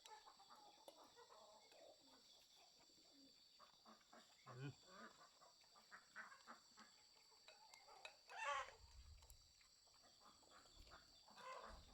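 Chickens clucking faintly, with a few short calls and a louder squawk about eight and a half seconds in, over a steady high-pitched hum.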